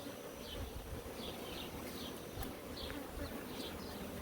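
Honeybee colony buzzing steadily from an opened hive during a frame inspection, a low, even hum of many bees.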